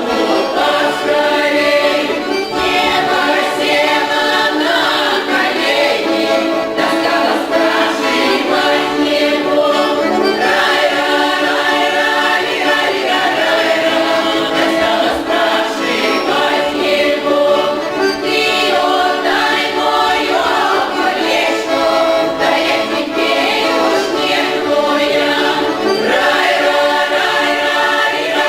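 Russian folk song ensemble singing a Kirov-region folk song as a choir, many voices together in long held lines.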